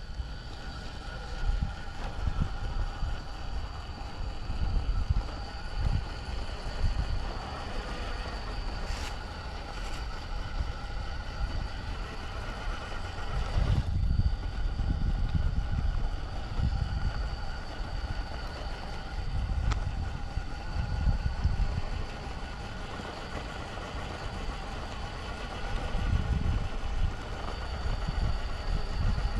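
Electric motor and geared drivetrain of an RC rock crawler whining steadily as it crawls, with irregular low rumbles underneath.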